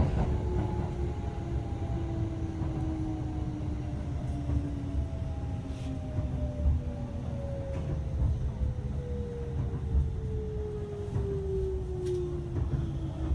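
Kintetsu local electric train slowing into a station, heard inside the carriage: the traction motors' whine falls steadily in pitch as the train brakes, over a low rumble of wheels on rail.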